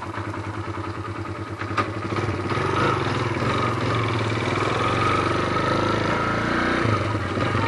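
Kawasaki KLX 150L's single-cylinder four-stroke engine idling with an even pulse, then pulling away about two seconds in and running steadily under light throttle. Its sound dips briefly near the end.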